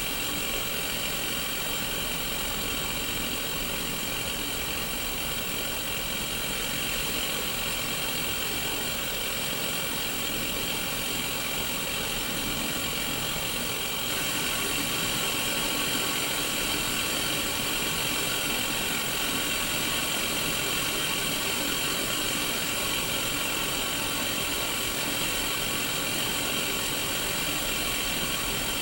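Steady hiss of static from a Sony Mega Watchman's tiny speaker, the portable black-and-white CRT tuned to an empty channel, with faint steady tones running under the hiss. It steps up slightly in loudness about halfway through.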